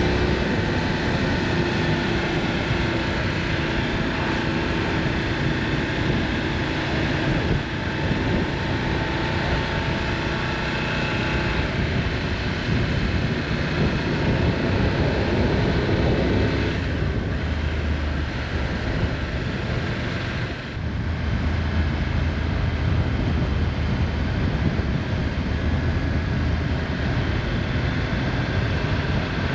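Motorcycle riding at road speed: engine running steadily under heavy wind rush on the microphone, with brief dips in level about 8 and 21 seconds in.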